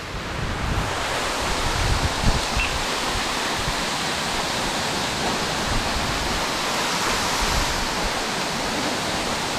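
Waterfall: a steady rush of falling water, with some low rumble.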